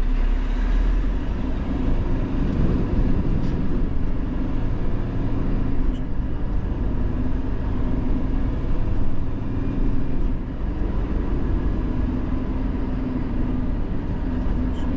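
Renault Trucks T480's six-cylinder diesel engine running steadily with a low drone, heard from inside the lorry's cab.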